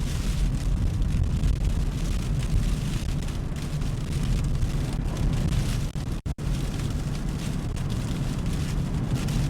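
Steady low rumble of road and wind noise inside a moving car's cabin while driving through strong gusting wind. The sound cuts out twice very briefly about six seconds in.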